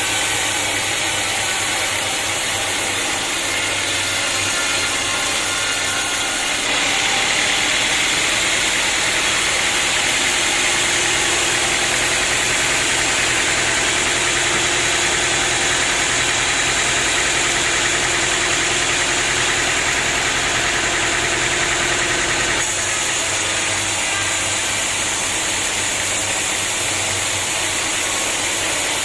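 Sawmill running steadily, its engine and saw making a continuous mechanical roar. Through the middle stretch it turns louder and hissier, and the shift starts and stops abruptly.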